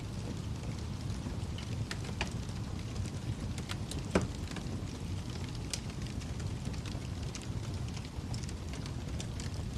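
Wood fire burning in a fireplace: a steady low rumble of the flames with scattered sharp crackles and pops, the loudest pop a little past four seconds in.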